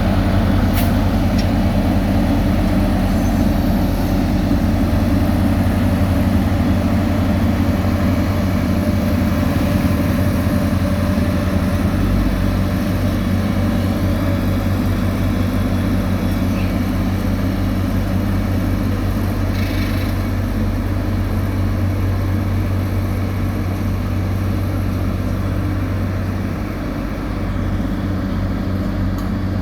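Heavy diesel construction machinery running steadily, a constant low engine drone.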